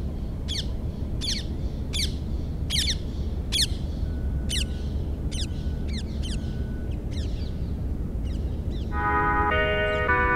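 A bird calling a regular series of sharp, downward-sliding chirps, about one every three quarters of a second, that thin out after about seven seconds, over a steady low rumble. About nine seconds in, sustained synthesizer chords come in.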